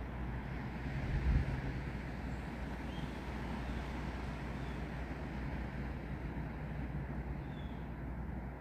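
Steady wind and rain ambience among trees: an even hiss over a low rumble, with a brief stronger low gust about a second in.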